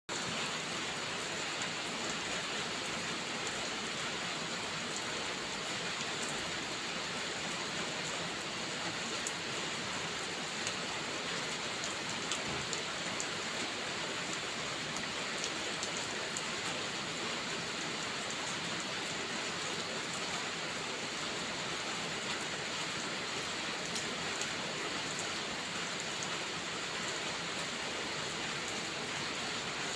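Heavy rain falling in a steady hiss, with scattered sharp crackles from a wood fire.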